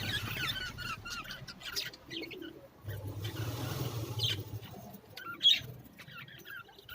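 Small pet birds chirping and twittering in quick, high, short calls, with one sharper, louder call about five and a half seconds in, over a low hum that comes and goes.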